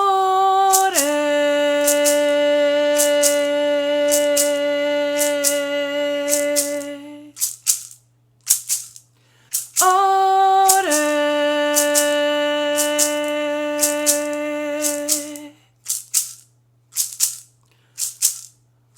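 A woman's voice holds two long chanted notes, each opening on a short higher pitch and dropping after about a second to a lower note held for several seconds. A hand rattle shakes throughout, also filling the gap between the two notes.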